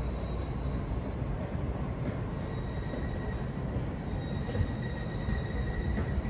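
Steady rumble of a train at a railway station platform, with a faint, steady high whine over it.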